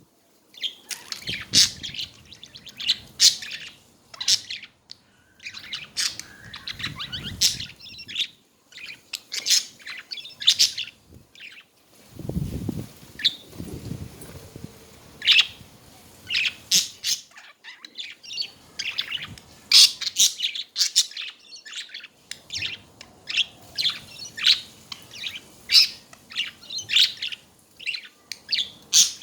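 Budgerigars chattering: many quick, short chirps and warbles in an irregular stream, with a brief lower sound about twelve seconds in.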